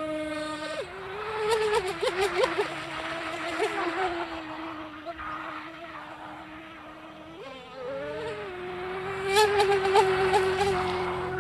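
Small RC boat's 2040 3900kv brushless motor running with a steady high whine. The pitch drops just under a second in and rises again about three quarters of the way through as the throttle changes. Short crackly bursts come twice.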